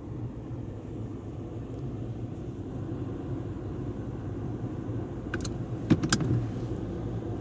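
Car wash tunnel equipment running with a steady low rumble, broken by a few sharp clicks and knocks about five and a half to six seconds in.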